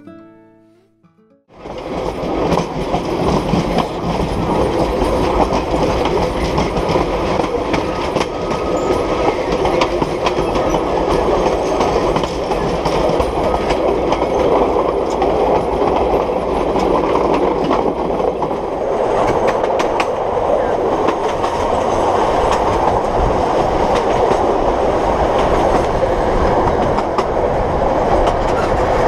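Passenger train running along the track, heard from the side of a moving carriage: a steady rumble and rattle of the wheels with frequent clicks, starting about a second and a half in.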